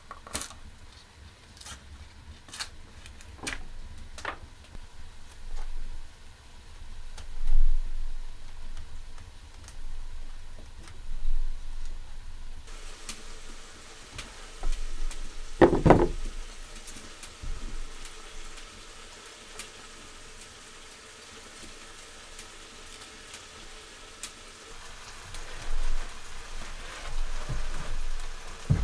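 Food sizzling in a hot pan. The sizzle starts suddenly about halfway through and runs on steadily, with scattered clicks before it and a sharp knock of a utensil or pan soon after it starts.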